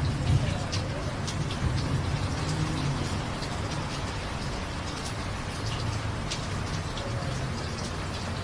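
Steady rain falling, with scattered sharp drips of single drops striking hard surfaces. Underneath runs a low rumble that eases after about three seconds.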